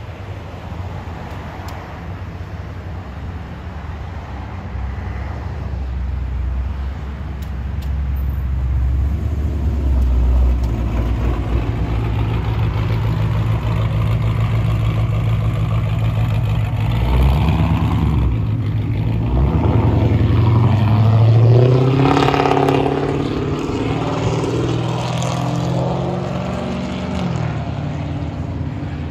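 Motor vehicle engine running, growing louder and rising in pitch a little past the middle as it speeds up.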